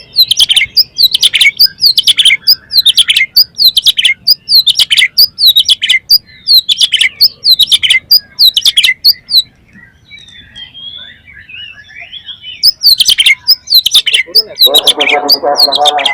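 Oriental magpie-robin (kacer) singing loudly: a fast run of sharp, falling whistled notes, about two a second. The notes give way to a few seconds of softer warbling before starting again. Near the end a lower, buzzy sound with many even tones comes in beneath the song.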